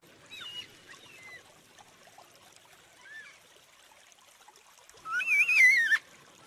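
Yellow-tailed black cockatoo calling: a few faint short calls early, then one loud wavering call of about a second near the end.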